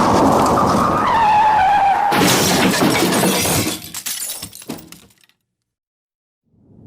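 Car crash sound effect: a loud screech that drops in pitch, then about two seconds in a crash of shattering glass and metal, followed by scattered clattering of debris that dies away over the next few seconds.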